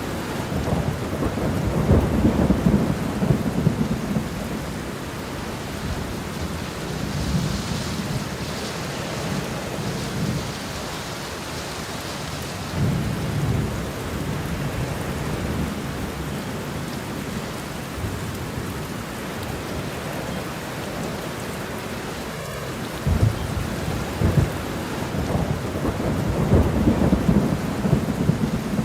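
Steady rain with thunder rumbling in low swells several times, strongest near the start and again near the end.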